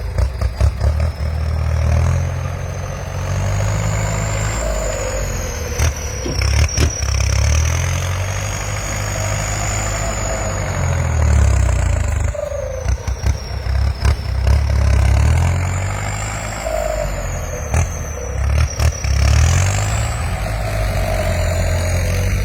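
Farm tractor diesel engine working hard, its low rumble swelling and easing every few seconds as the load changes, with a high whine that rises and falls along with it and occasional rattling knocks.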